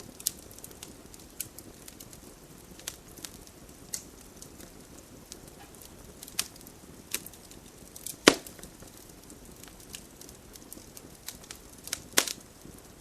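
Wood campfire crackling, with scattered sharp pops over a faint hiss; the loudest pops come about eight seconds in and again near the end.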